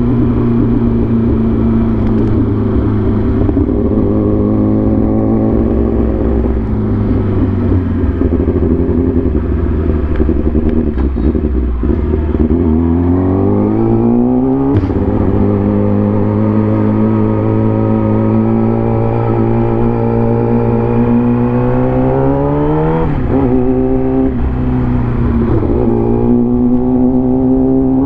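Vehicle engine under way on the road: it runs steadily, then revs climb for a few seconds and drop sharply at a gear change about halfway through, climb again and drop at another shift near the end.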